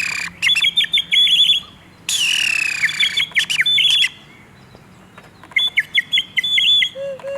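Loud, bird-like calls repeated in three rounds: each starts with a high squeal that falls in pitch and runs into a quick string of chirps. Near the end a steady held note begins.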